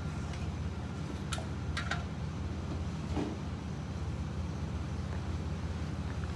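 Vehicle running: a steady low rumble, with a few light clicks and rattles in the first half.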